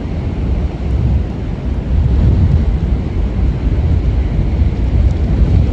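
Storm wind buffeting the microphone: a loud, gusty low rumble with no let-up.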